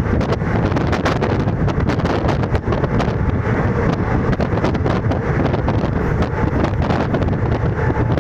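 Indian Railways ICF passenger coach running at about 110 km/h: a steady, loud rumble of wheels on the rails and rushing wind, with many quick clicks and rattles.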